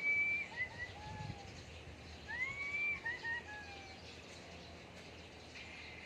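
A bird calling twice, about two seconds apart. Each phrase is a whistle that rises and holds, followed by a few short falling notes.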